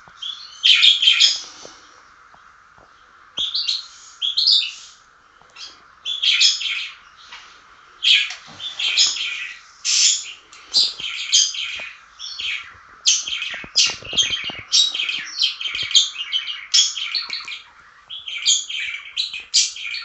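A bird chirping and twittering in quick, high, repeated phrases, almost without pause in the second half, over a steady faint hiss.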